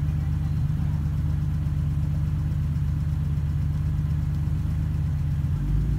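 Jeep engines idling close by with a steady low rumble; near the end the engine note shifts.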